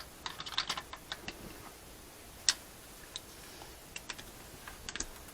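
Light clicks and taps of small metal parts being handled during a hydraulic valve lifter swap in a cylinder head. There is a quick run of clicks at the start, one sharper click about two and a half seconds in, and a few more near the end.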